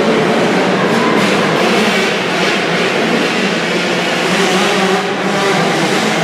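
Several 65cc two-stroke motocross bikes racing, their engines revving and changing pitch continuously.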